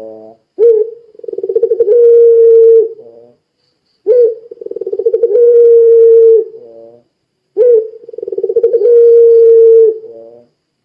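Puter pelung dove cooing loudly in three long calls, about three and a half seconds apart. Each opens with a sharp upward note, moves through a fluttering stretch into a long held note, and ends in a short rolling stutter.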